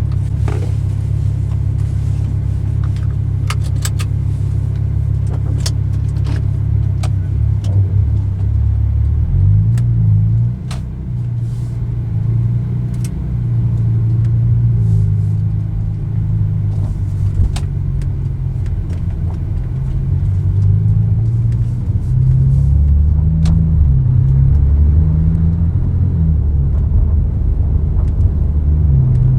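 Porsche 997.2 Carrera 4S 3.8-litre flat-six with both side mufflers removed, running with a deep, steady rumble; from about nine seconds in its pitch shifts up and down as engine speed changes. A scattering of light clicks sounds in the first several seconds.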